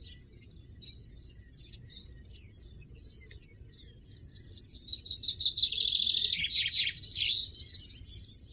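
European goldfinch calling and singing: scattered short high chirps, then about halfway through a loud rapid twittering phrase of quick high notes lasting a few seconds.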